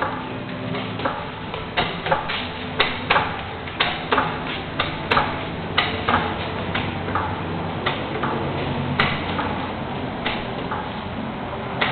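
Irregular sharp clicks and taps, about one or two a second, over a steady low hum.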